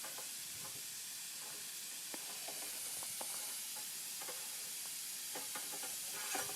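Steady faint hiss with scattered light clicks and taps, as wadding and a pencil are rammed down the barrel of a compressed-air cannon.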